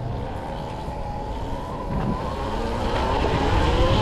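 Electric dirt bike's motor whining while riding, the whine rising in pitch and getting louder through the second half as the bike speeds up, over a steady low rumble.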